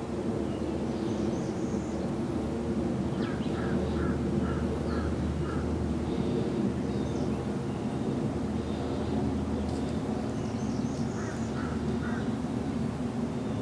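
A bird calling in short repeated notes, a run of about six a few seconds in and a run of three near the end, over a steady low rumble.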